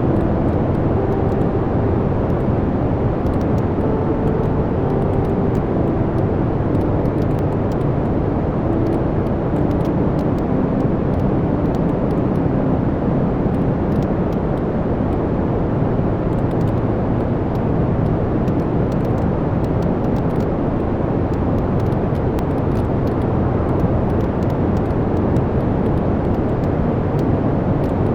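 Wood fire burning in a fireplace: a steady low roar of the flames with many small, scattered crackles and pops from the burning logs.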